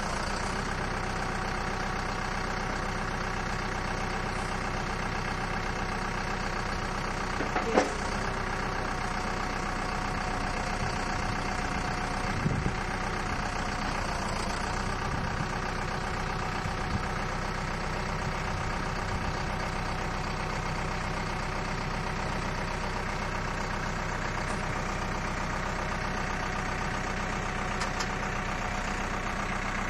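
A 50 HP four-cylinder water-cooled diesel tractor engine running steadily while the front loader and its grapple bucket are worked, with a sharp knock about eight seconds in and another near the middle.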